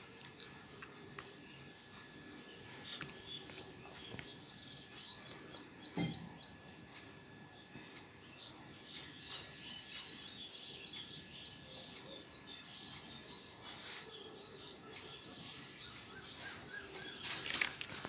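Faint bird twittering: several runs of quick, high chirps in rapid succession, with a couple of soft knocks in between.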